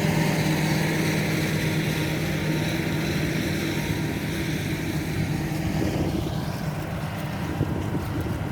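Diesel engine of a John Deere 8R-series tractor running steadily under load with a constant hum, growing gradually quieter over the last few seconds.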